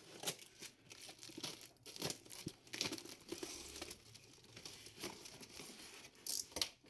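Parcel packaging being torn open and crumpled by hand: irregular crinkling, rustling and tearing.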